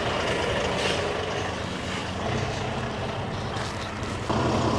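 Heavy diesel recovery truck's engine running steadily, then stepping up to a louder, higher note about four seconds in.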